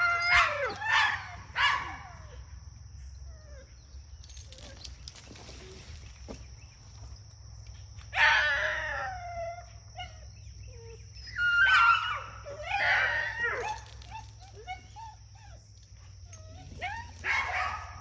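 A dog whining and yelping in several short bouts, with a steady low hum and a steady high-pitched buzz underneath.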